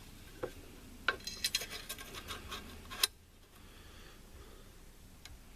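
Small metal rifle parts (short 3-slot rail sections and their screws) clinking and clicking together as they are handled and fitted, a quick run of light clicks ending in one sharper click about three seconds in.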